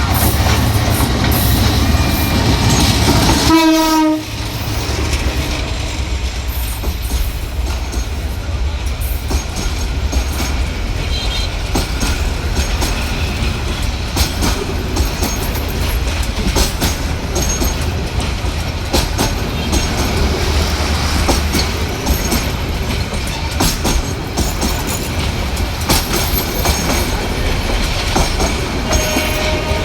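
Bangladesh Railway train running with a steady low rumble and repeated clicks of wheels over rail joints. A short horn note sounds about four seconds in, after which the sound drops suddenly.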